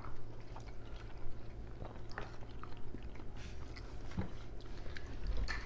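A person chewing a bite of peeled hard-boiled egg, soft mouth sounds with a few faint clicks.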